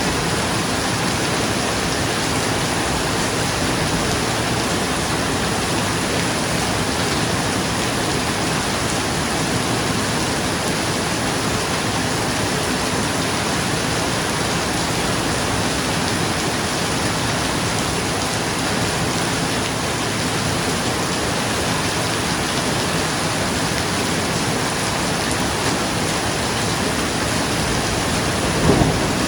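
Steady rain falling on a roof, an even hiss of drops. A brief louder thump comes near the end.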